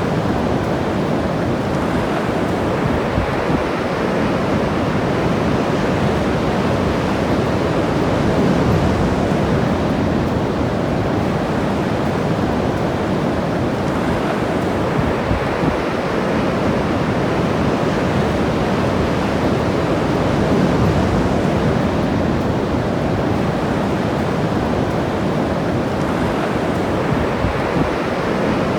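Ocean surf breaking and washing up the beach: a steady rush of waves that swells a little twice.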